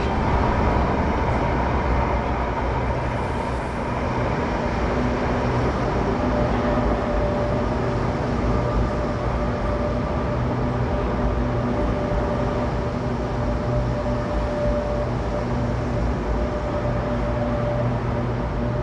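Electric light-rail train running in along a station platform: a steady rumble of wheels on the rails with a held hum from its electric drive.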